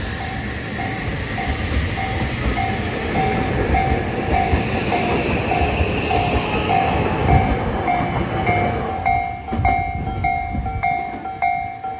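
A Tobu Urban Park Line electric train runs through the station, its rumble and rail-joint clicks fading about three-quarters of the way in. Throughout, a level crossing's electronic warning bell dings at about two strokes a second, growing more prominent as the train fades.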